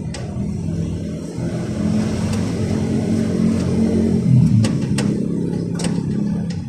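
A motor vehicle engine running steadily, its pitch dipping and rising briefly about four and a half seconds in, with a few sharp clicks over it.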